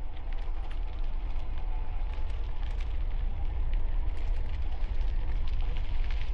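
Bicycle tyres crunching steadily over gravel, a dense crackle, under a heavy low rumble of wind on the helmet-mounted microphone.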